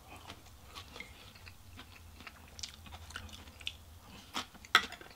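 A person chewing a mouthful of food close to the microphone, with soft wet mouth clicks throughout and a few sharper clicks about four and a half seconds in as another bite is taken.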